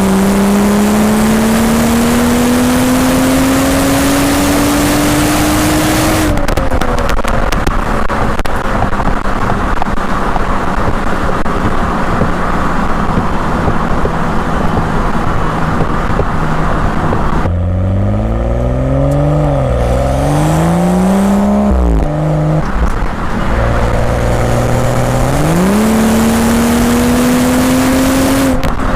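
BMW M235i's turbocharged straight-six exhaust, heard through an external microphone while driving. It accelerates through a gear for about six seconds, then lifts off to a steady cruise under wind and road noise. About two-thirds of the way in the revs rise and fall several times, then the car accelerates again near the end before the revs drop.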